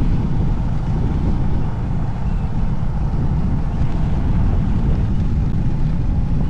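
Wind buffeting the microphone of a moving motorbike: a steady low rumble with no clear engine note.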